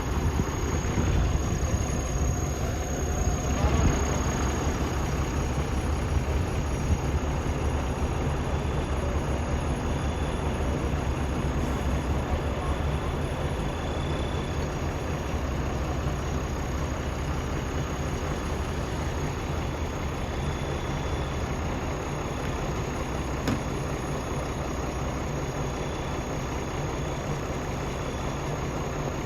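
Diesel engine idling steadily, a low even rumble, with one short click near the end.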